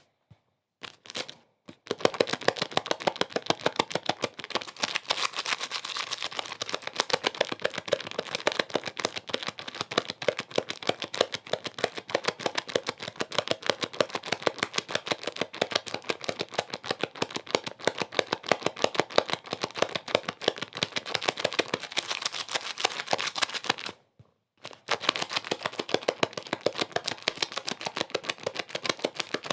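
Dense, fast, irregular crackling clicks without pause, cutting out briefly near the start and again about 24 seconds in.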